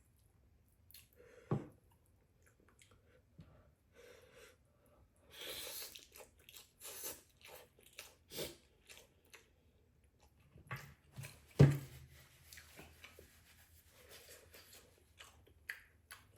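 A person chewing a mouthful of noodles, with scattered short mouth clicks and a brief noisy stretch about six seconds in. One sharp, loud knock comes near twelve seconds in.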